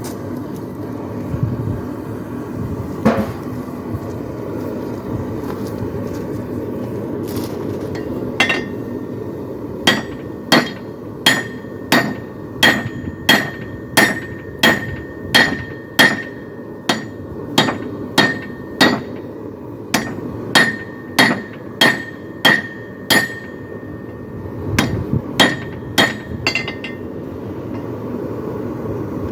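Hand hammer striking hot steel on an anvil while forging a poleaxe spike: a couple of scattered blows, then a steady run of strikes about one and a half a second, each with a short metallic ring, with a brief pause near the end before a few more. A steady low rushing noise runs underneath.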